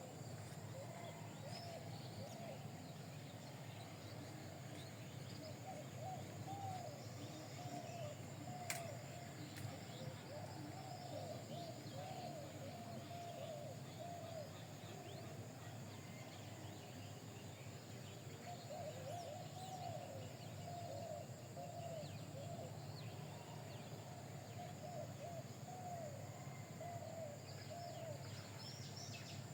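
Birds chirping in short, repeated, fairly low-pitched warbling notes that come in runs, with a lull in the middle, over a steady low hum. There is a single sharp click about nine seconds in.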